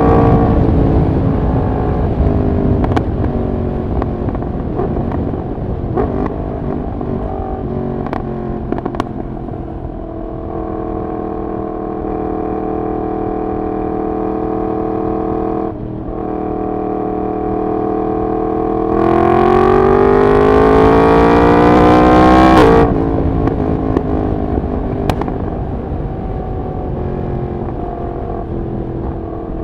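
Yamaha MT-10's crossplane inline-four engine through a decat full exhaust system, under way: the engine note falls off the throttle with a few sharp cracks, holds steady at a cruise, then climbs in a hard acceleration about two-thirds through and cuts off abruptly, falling again with another crack.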